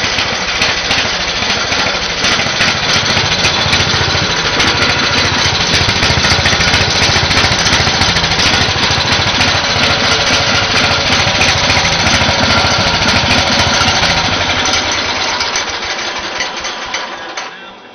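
Speedex S24 garden tractor engine running steadily after a cold start, then winding down and dying away over the last few seconds as it is shut off.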